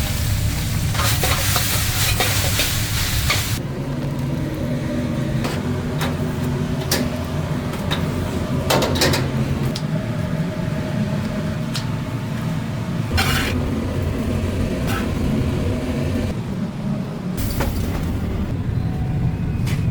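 Food sizzling as it cooks in a restaurant kitchen, over a steady low rumble, with a few sharp clicks of utensils about nine and thirteen seconds in.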